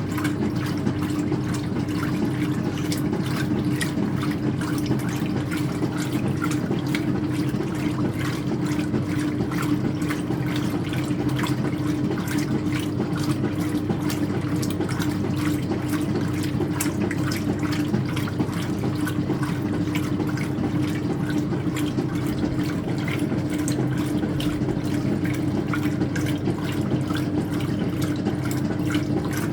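Speed Queen top-loading washing machine running mid-cycle on a load of towels: a steady motor hum with water swishing and splashing in the tub.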